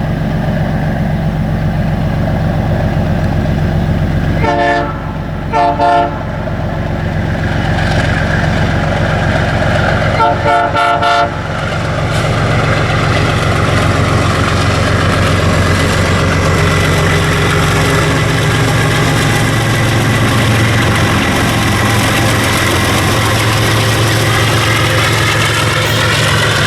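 Diesel locomotive running, its horn sounding two short blasts about five seconds in and a quick run of short toots about ten seconds in. The engine noise grows a little louder after that.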